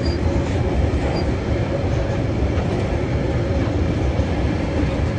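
Freight train wagons, coal hoppers and then container flats, rolling past close by: a steady rumble of steel wheels on the rails with some clickety-clack.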